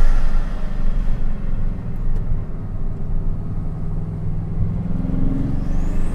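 Bugatti Chiron Sport's quad-turbocharged W16 engine, heard from inside the cabin, pulling steadily on the throttle. In the last second a high turbo whistle rises steeply as it accelerates again.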